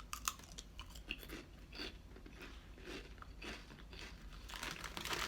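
Flamin' Hot Funyuns onion-flavored rings being bitten and chewed close to the mouth: irregular crisp crunches, coming thicker near the end.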